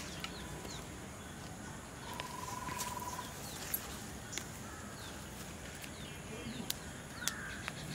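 Birds chirping in the background: scattered short high chirps and a rapid trill held on one pitch for about a second, with a few faint clicks.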